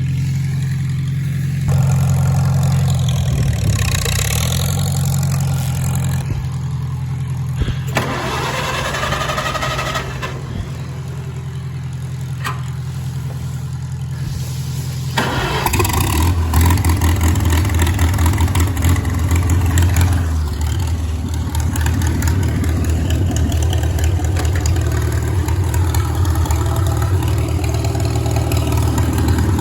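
Farmall tractor engine running steadily. About halfway through, the engine sound turns louder and deeper, as if a tractor is starting up or being throttled up.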